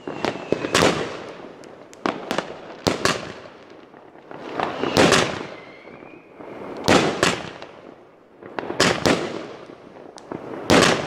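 A 30 mm consumer fireworks battery, the Heavy Metal Reloaded, firing shot after shot: sharp bangs of launches and bursting shells, roughly one to two seconds apart and often in quick pairs, each fading out with crackle.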